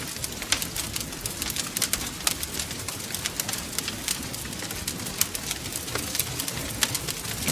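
Wood fire crackling: many irregular sharp snaps and pops over a steady low rush of burning.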